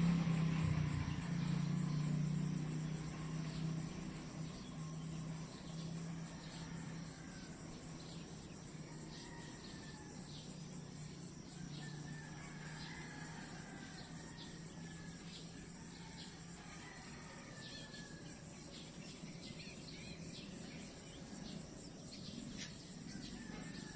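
A steady high-pitched chorus of insects trilling, with faint short bird calls in the middle. A low hum fades out over the first few seconds.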